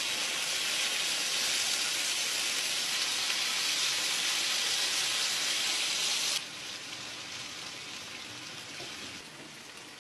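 Marinated chicken pieces sizzling as they fry in hot desi ghee in a grill pan, a steady hiss. It drops sharply in loudness about six seconds in and again near the end.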